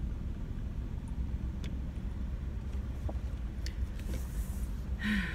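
A car's engine running, heard from inside the cabin as a steady low rumble, with a few faint clicks and a short higher-pitched sound near the end.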